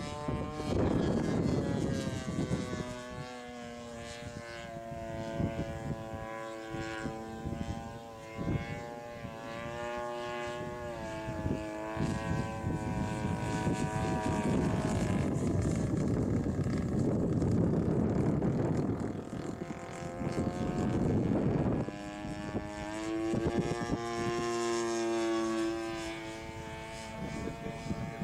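Two-stroke chainsaw engine driving an aircraft's propeller in flight: a buzzing drone whose pitch rises and falls, broken by long stretches of rushing noise.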